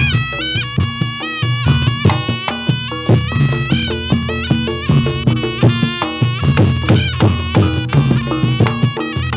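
Reog Ponorogo traditional music: a slompret (Javanese shawm) plays a reedy, gliding melody over frequent drum strokes and a steady low drone.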